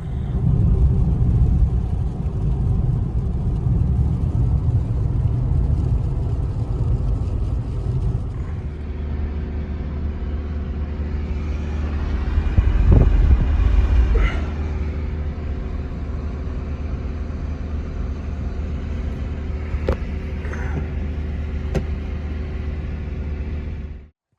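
Steady low rumble of a motor vehicle running. It changes to a steadier, lower drone about eight seconds in and cuts off suddenly near the end.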